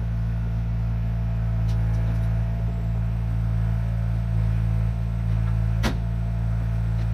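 Engine of a 1972 Chevrolet C50 dump truck running steadily, a low, even drone. A single sharp click about six seconds in.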